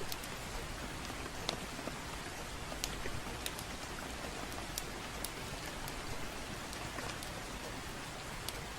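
Steady gentle rain with a crackling fire, sharp pops scattered irregularly through the even hiss.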